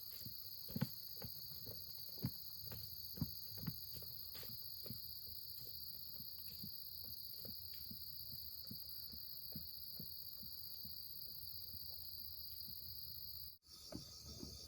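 Steady high-pitched chorus of insects, with soft, irregular knocks and snaps in the foreground, a few louder ones in the first four seconds. The sound drops out briefly near the end.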